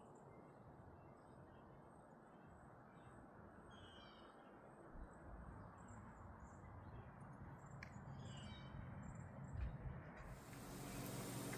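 Quiet outdoor ambience with faint, scattered bird chirps over a low rumble. A soft low thump comes late on, and a steady hiss rises near the end.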